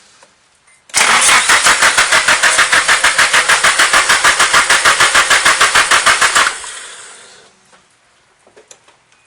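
Nissan SR20 inline-four being cranked on its starter, an even rapid chug of about six or seven pulses a second that starts about a second in and stops after some five and a half seconds. The engine doesn't fire: a crank-no-start.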